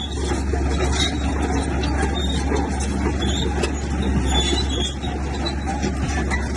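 Heavy diesel earthmoving machinery running steadily, a constant low engine drone with scattered short metallic squeaks and clanks over it.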